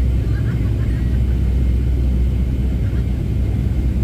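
Cabin noise of a Boeing 737-700 airliner with CFM56-7B engines: a steady, loud low rumble of engines and airflow heard from a forward seat.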